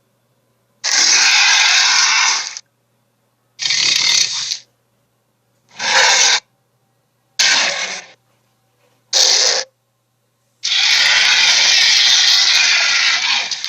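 Sharptooth (cartoon Tyrannosaurus) roar sound effects: six roars with silence between them. The last and longest starts about eleven seconds in.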